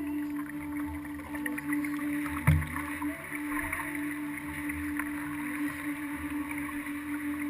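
Kayak under way, picked up by a camera mounted on the hull: water washing against the hull under a steady low hum, with one knock about two and a half seconds in.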